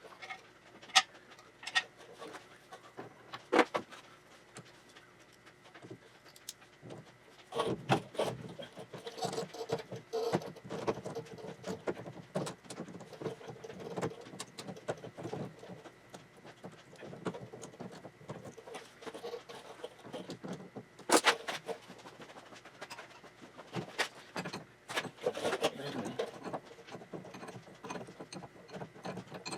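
Metal hand tools and parts clinking and knocking at irregular intervals while a VW beam front end is worked on, with a few sharp clanks and a busier stretch of handling about a third of the way in.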